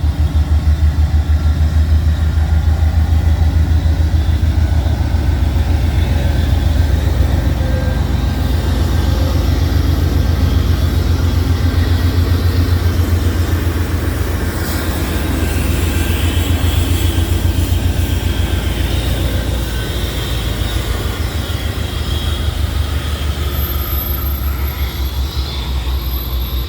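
Diesel freight locomotive passing close by, its engine throbbing loud and steady, easing off a little in the second half.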